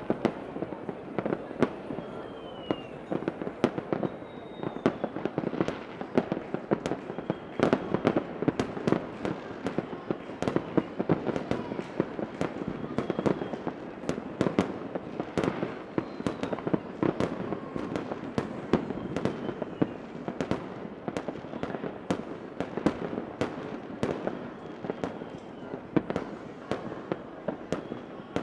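Fireworks display: a dense, unbroken run of bangs and crackles over a continuous rumble, with a few faint whistles gliding down now and then.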